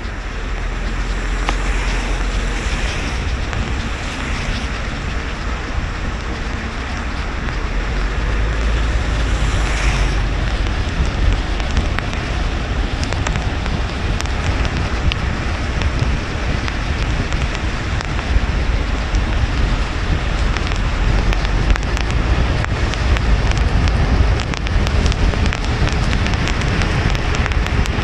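A car driving on a wet road in rain: steady tyre and road noise with a deep rumble, and raindrops pattering on the car.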